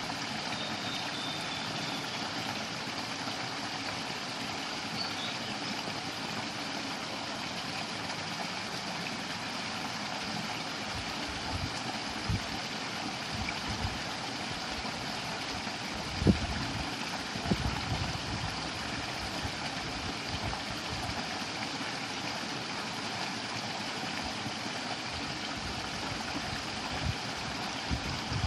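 Steady rush of flowing water from a stream. A faint short bird call comes about a second in, and a few low gusts of wind buffet the microphone in the second half.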